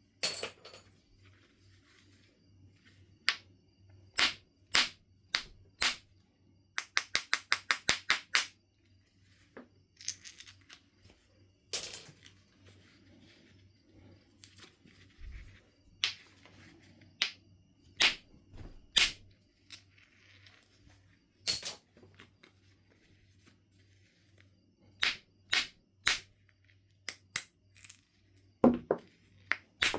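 Knife River Flint being knapped: sharp, separate clicking strikes and small knocks of stone, with a quick run of about ten light, evenly spaced taps around a quarter of the way in.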